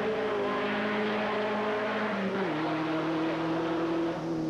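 Racing sedan engine running hard at high revs during a hillclimb run. Its pitch drops about two and a half seconds in, then holds steady.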